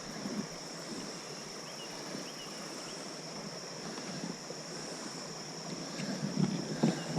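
Quiet river ambience heard from a kayak: a steady high-pitched hum over a faint wash of water and wind, with a few soft knocks near the end.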